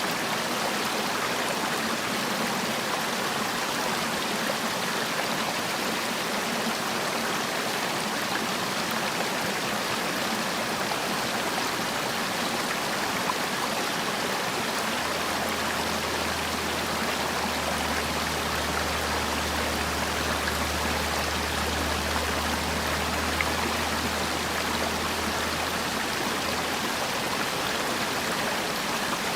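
Mountain valley stream rushing steadily over rocks, a continuous even wash of running water.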